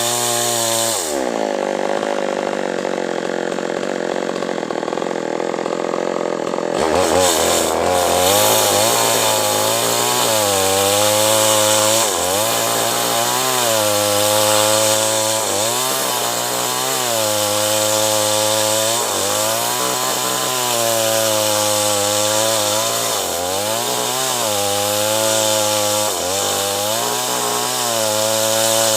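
Two-stroke chainsaw cutting acacia wood. The engine pitch drops right at the start, then from about seven seconds in it repeatedly sags under the load of the cut and picks back up, every second or two.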